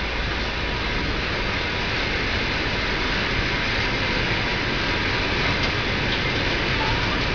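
Long passenger train moving slowly along the tracks below, heard as a steady, even running noise with no distinct clacks or horn.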